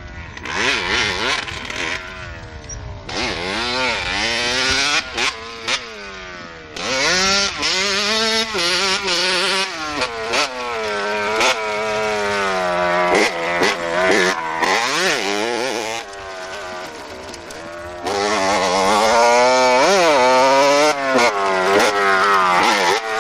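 Small motorbike engine revving up and dropping back over and over as it is ridden, its pitch climbing and falling with each burst of throttle; loudest near the end.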